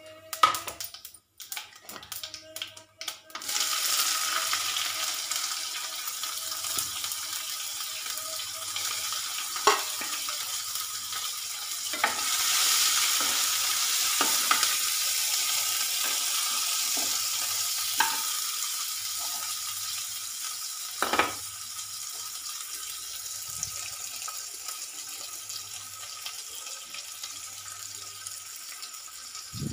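Hot oil in a non-stick kadai breaks into a steady sizzle about three and a half seconds in, as sliced onions go into the tempered seeds. A steel spoon scrapes and knocks against the pan a few times during stirring.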